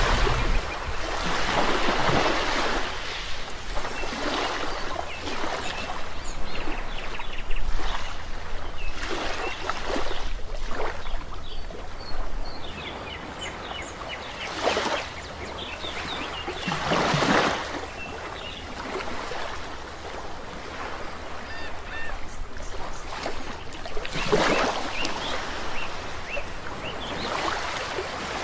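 Sea waves washing onto a shore in repeated surges, with birds calling over them in short, high chirps.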